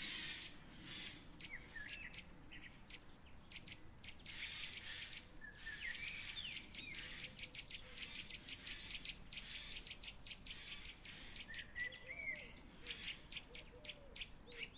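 Faint background of birds chirping and calling, with many short sharp chirps in quick series and brief whistled notes that glide up and down, over a low hiss of insects.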